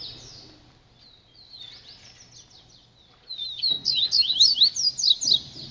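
Papa-capim seedeater singing a fast run of high, sweeping chirps. The song is faint at first, then comes in a loud, dense burst from about three seconds in.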